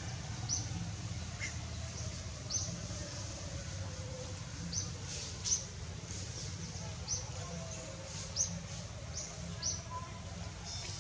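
A small bird chirping in the background: short, high chirps about once a second at uneven spacing, over a steady low rumble.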